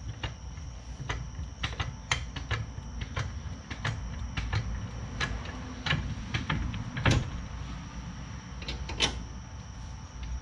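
Irregular metal clicks and knocks as car suspension parts and tools are handled during reassembly, a few per second, with two louder knocks about seven and nine seconds in.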